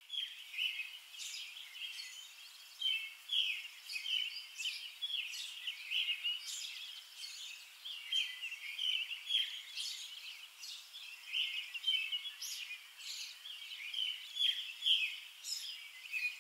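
Birds chirping outdoors: a steady stream of many short, high chirps and trills.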